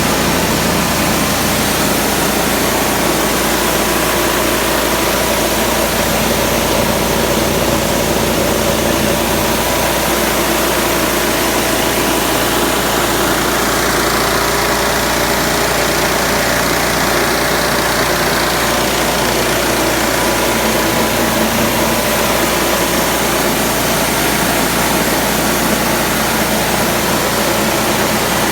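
Coffee huller driven by a Honda GX160 single-cylinder petrol engine, running steadily at a constant speed.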